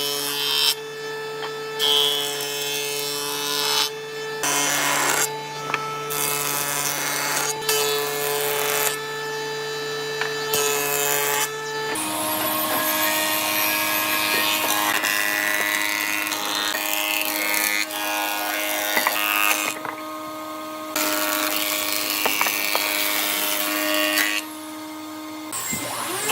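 Woodworking power tools running and working wood: a machine with a steady motor hum and cutting noise, briefly interrupted several times, then, about halfway through, a different machine with a higher steady hum.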